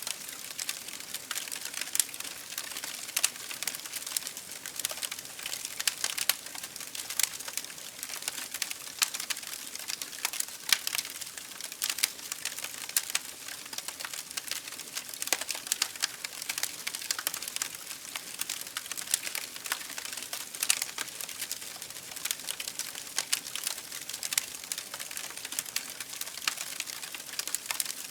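Campfire burning steadily, wood crackling and popping with many irregular snaps over a soft hiss.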